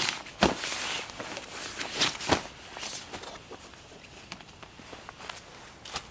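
A few sharp knocks among rustling and light clicks, irregular rather than a steady step rhythm, the loudest about half a second in and twice around two seconds in.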